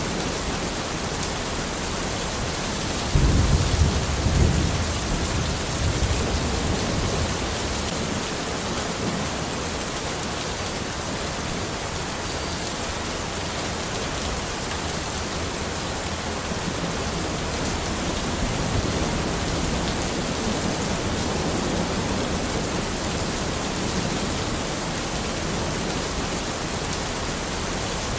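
Steady rain falling in a forest, with a low rumble of thunder about three seconds in that lasts a couple of seconds, and fainter rumbles later.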